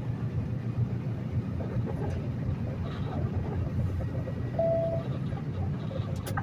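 Diesel semi-truck running down the road, heard from inside the Peterbilt's cab as a steady low rumble. There is a short, single-pitched beep about four and a half seconds in.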